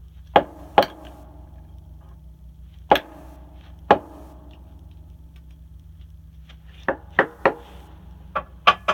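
A new spark plug's ground electrode tapped sharply against a hard surface, about ten short knocks with a brief metallic ring: twice near the start, twice a few seconds in, then a quicker run of six near the end. The taps are closing an electrode gap that is too wide.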